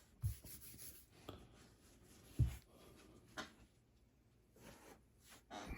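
Quiet handling noises on a work surface: two soft low thumps, with a few light clicks and rustles in between.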